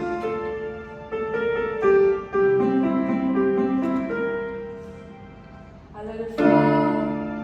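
Piano playing a slow melody over held chords, notes struck and left to ring, fading down before a loud chord is struck about six and a half seconds in.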